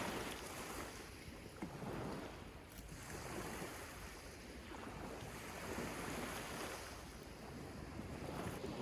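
Sea waves breaking and washing up a sandy beach, swelling and fading every two to three seconds, with wind rumbling on the microphone.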